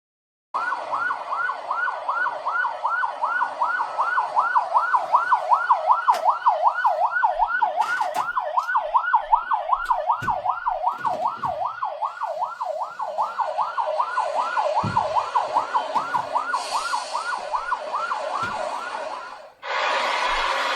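Emergency vehicle siren in a fast yelp, its pitch sweeping up and down nearly three times a second, with a few low thuds underneath. It cuts off shortly before the end and gives way to a steady rushing noise.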